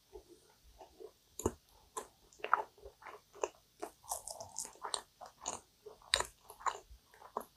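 Close-miked chewing and biting of a crisp, caramelized kouign-amann pastry: irregular sharp crunches and crackles, several a second.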